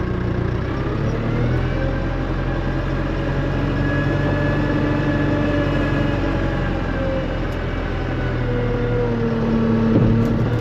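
Kubota tractor's diesel engine running under way, its pitch climbing a second or two in and dropping again near the end, with a short knock shortly before the end.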